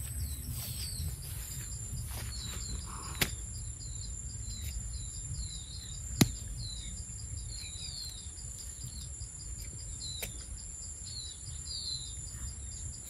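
A bird calling over and over in short falling chirps, over a steady high-pitched hum and a low wind rumble. Two sharp clicks cut through, the louder about six seconds in.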